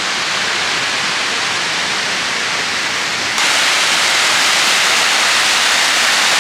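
Steady rush of flowing water, an even hiss that jumps abruptly louder about three and a half seconds in.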